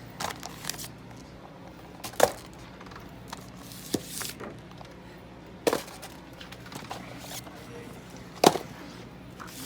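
A few sharp knocks and clunks, as boxed fireworks are handled and set into a shopping cart, over a low steady hum.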